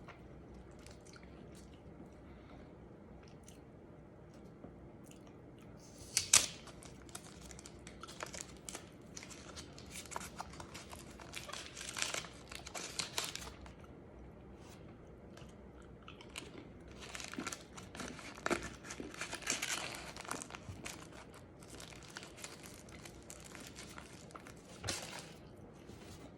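Chewing and crunching on a spicy white chocolate bar with chunks of pepper in it, coming in bursts with pauses between. A single sharp crackle about six seconds in is the loudest sound.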